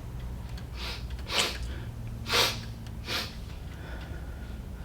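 Sniffling sobs voiced by a puppeteer for a crying cat puppet: three short, noisy sniffs, about a second apart.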